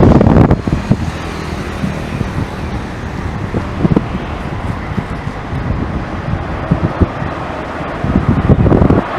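Jet airliner landing, a steady engine rush, with wind buffeting the microphone, hardest at the start and again near the end.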